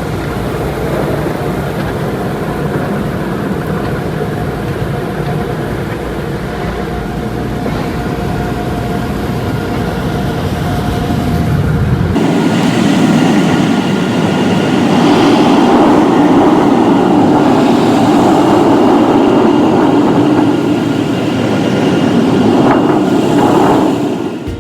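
Automatic car wash heard from inside a car: a steady mechanical rumble with a faint steady whine. About halfway through it changes abruptly to a louder rushing noise.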